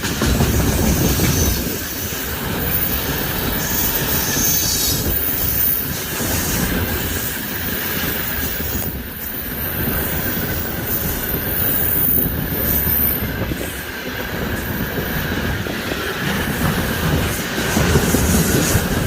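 Train hauled by a VL11 electric locomotive running past, a continuous rumble of wheels and running gear with high, thin wheel squeal above it.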